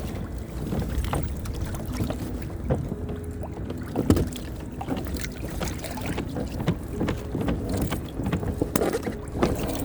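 Pedal-drive kayak straining against the rope of a crab pot snagged on rocks: water sloshing at the hull, with intermittent creaks and knocks, and wind on the microphone.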